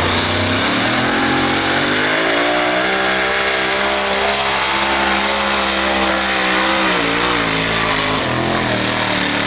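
Light modified pulling tractor's engine at wide-open throttle during a pull. The revs climb over the first two or three seconds, hold high and wavering, then drop off near the end.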